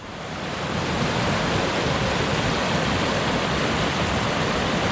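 River rapid, bordering on class 3, rushing steadily. The roar swells up over about the first second and then holds level.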